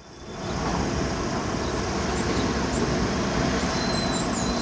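Distant train passing, a steady noise that swells in over the first half-second and then holds level.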